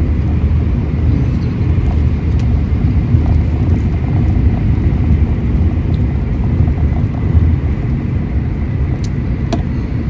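Steady low rumble of a Shinkansen bullet train running, heard from inside the passenger cabin, with a few light clicks over it, two close together near the end.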